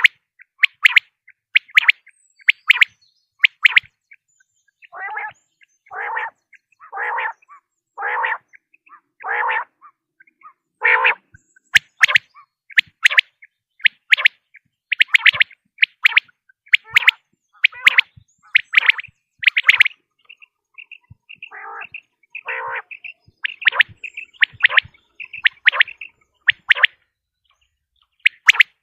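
Common quail (batair) calling: groups of short, sharp, high calls, with a run of six lower, longer notes about a second apart in the middle and two more near the end.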